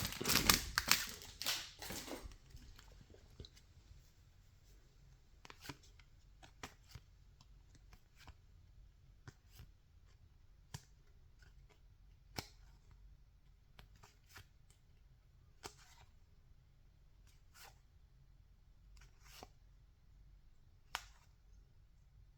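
Baseball trading cards being handled and flipped through one at a time: faint, short card flicks and taps every second or two. A brief crinkling of a pack wrapper in the first couple of seconds.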